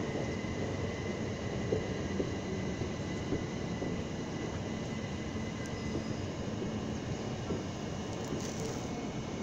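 Electric passenger train pulling slowly out under the footbridge: a steady running hum with a faint constant whine.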